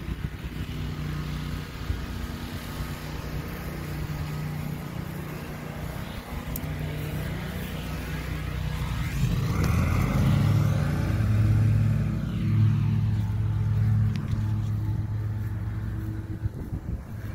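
A motor vehicle's engine running with a steady low hum, growing louder for several seconds past the middle as a vehicle passes close by, then easing off.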